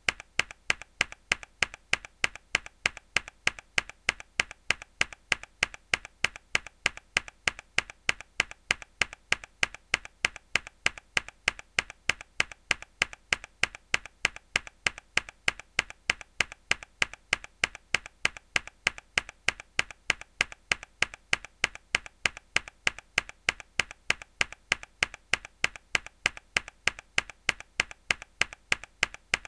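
A hard key press on a mechanical keyboard, a sharp click repeated in an even rhythm several times a second as a looped sound effect.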